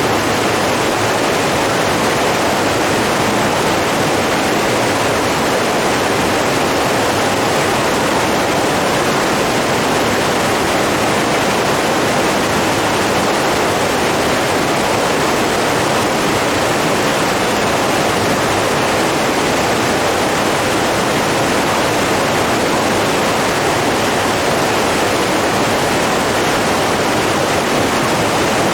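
Steady rush of running water, a stream or small waterfall, an even unbroken noise with no changes.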